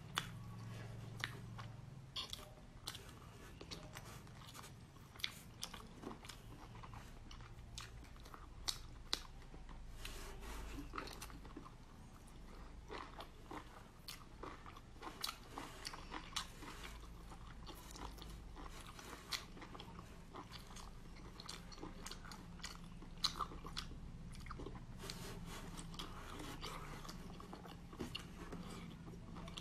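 A person chewing and biting into braised octopus: close mouth sounds with many short, sharp clicks and smacks throughout.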